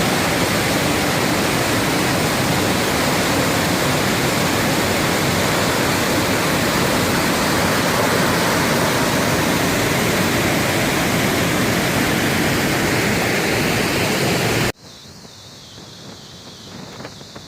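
Waterfall rushing steadily close by, a loud even roar of falling water. Near the end it cuts off abruptly to a much quieter, duller rush of water.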